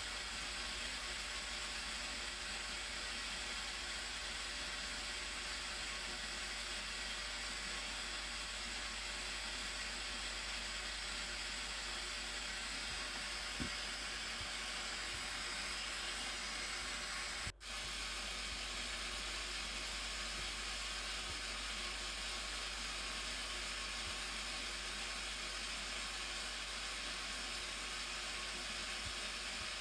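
Steady rushing of falling water from a waterfall, an even hiss that cuts out for an instant about seventeen seconds in.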